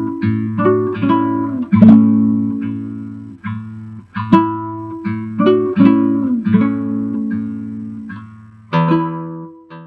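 Solo acoustic guitar, plucked notes of a melody over a low bass note left ringing, ending on a final chord a little before the end that rings out and fades.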